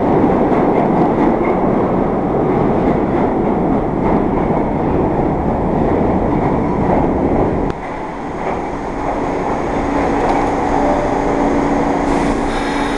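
New York City subway train running through the station: a loud, steady rumble of wheels on track. About eight seconds in it drops suddenly to a quieter rumble with a steady hum.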